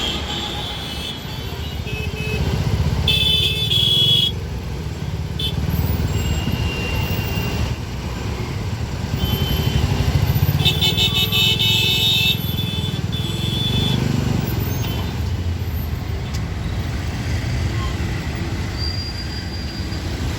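Slow-moving city road traffic: a steady rumble of car and motorcycle engines with horns honking again and again, two longer horn blasts about 3 seconds and 10 seconds in, and shorter toots between.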